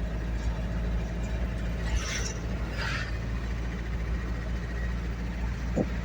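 Steady engine and road rumble of a vehicle being driven, heard from inside the cab, with two brief hisses about two and three seconds in.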